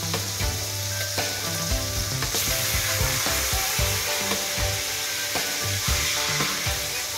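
Marinated chicken leg pieces sizzling in hot oil in a wok, with metal tongs knocking and scraping against the pan as the pieces are turned.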